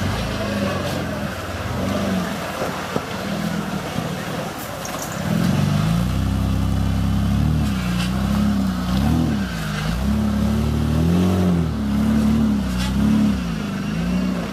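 Off-road trial truck's engine running, getting louder about five seconds in and then revving up and down several times as it works through the obstacle course.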